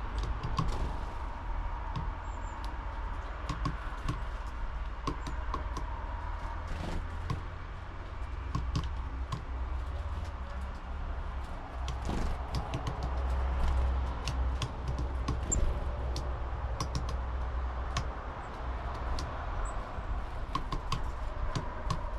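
Irregular small taps and clicks of birds pecking and hammering at seeds on a wooden feeder, under a steady low rumble of wind on the microphone, with a few faint high bird chirps.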